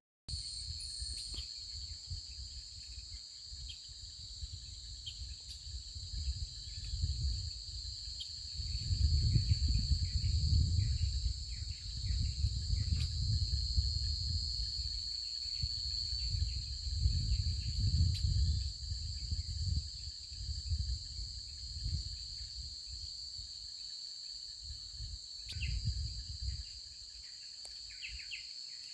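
Forest insects trilling in a continuous high-pitched drone. Below it a low rumble swells and fades several times, loudest in the middle stretch, with a few faint chirps.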